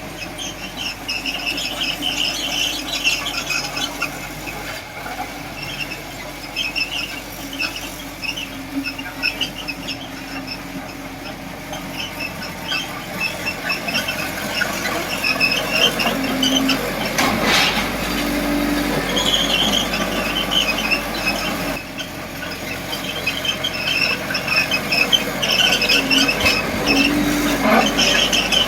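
Small crawler bulldozer working, its steel tracks squealing in repeated uneven screeches over the running engine.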